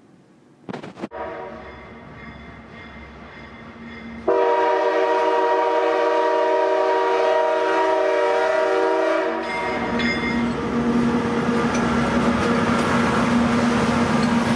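A train sounds a long, loud chord-like whistle blast a few seconds in, after a quieter tone. The whistle gives way to the rumble and rail noise of the train running, which cuts off abruptly.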